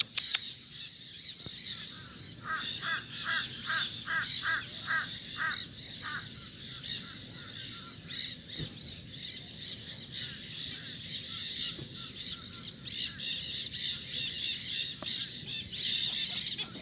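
Birds calling: a quick series of about ten harsh, caw-like notes, roughly three a second, then scattered calls again later on.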